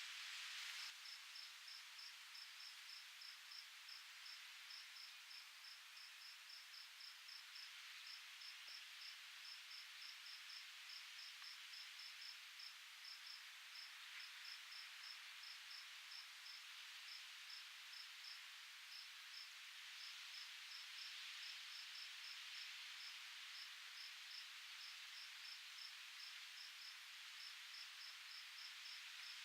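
An insect chirping in a steady, even pulse of short high chirps, several a second, over a faint steady hiss. The chirps begin about a second in.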